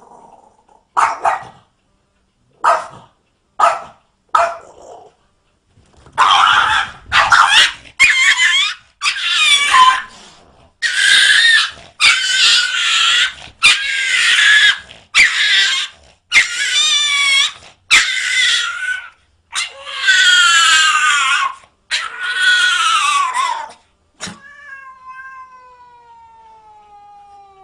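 Domestic cat yowling: a few short cries, then a long series of loud, drawn-out, hissy caterwauls with abrupt breaks between them, the threatening yowl of a cat squaring off. Near the end comes a quieter, long cry that falls in pitch.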